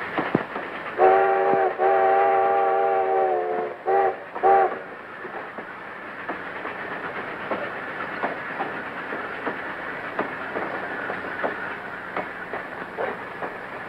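Train whistle sounding two long blasts and then two short toots, over the steady clickety-clack of a moving train's wheels on the rail joints.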